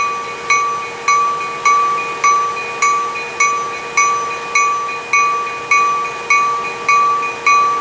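A railroad bell ringing steadily, about two strokes a second, each clear ding fading before the next, over a steady hum.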